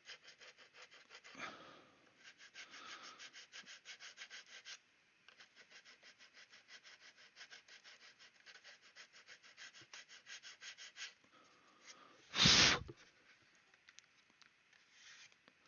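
Rapid, even back-and-forth rasping strokes of a small hand file on the plastic wing root of a scale model kit, about five a second, pausing briefly and stopping about eleven seconds in. About a second later comes one short, loud puff of breath blowing off the filing dust.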